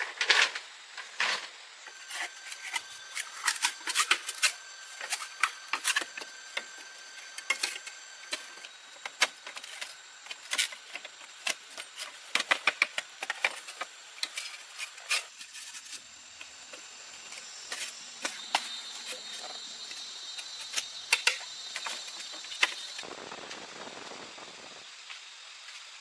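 Irregular sharp knocks and clatter of wood or tools being handled, with thin steady high tones, such as insects, behind. A short rustling noise comes near the end.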